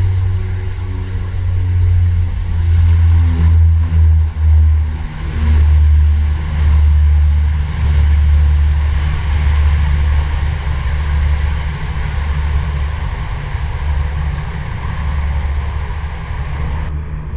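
Antonov An-26's twin Ivchenko AI-24 turboprop engines and propellers droning as the plane lands. The propeller tones slide down in pitch over the first few seconds, then give way to a steady rumbling rush that slowly fades.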